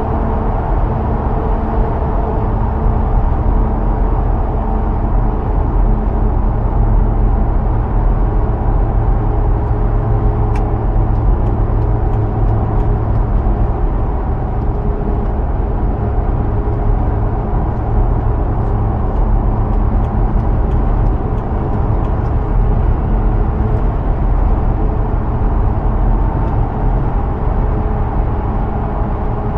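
2005 Hummer H2's 6.0-litre V8 holding a steady cruise, a low drone with tyre and road noise, heard from inside the cabin.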